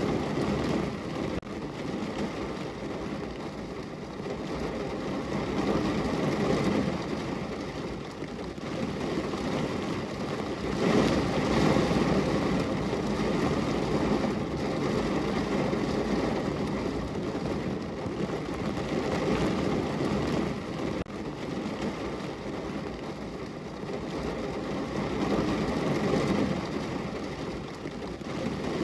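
Rain falling on a window: a steady rushing noise that swells louder a few times, most of all about a third of the way through.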